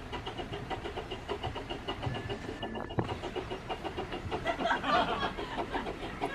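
Steam train on the Ravenglass and Eskdale Railway running with a quick, steady rhythmic beat. A single click comes about halfway through.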